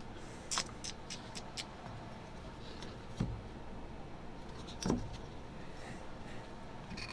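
Tools and material being handled on a work table: a quick run of about five light clicks in the first two seconds, then two soft knocks, like things set down on the table, and one more click near the end.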